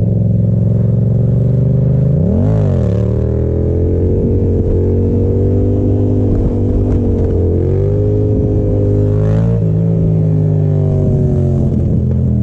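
Yamaha FZ-07's parallel-twin engine running at a steady speed, with a brief rev up and back down about two and a half seconds in and smaller dips in revs later.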